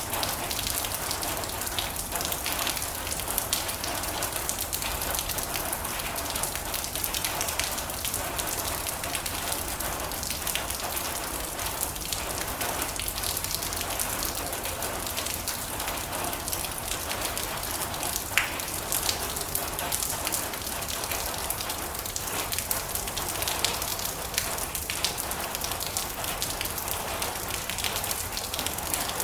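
Steady rain on a metal roof, a dense patter of many small drop impacts.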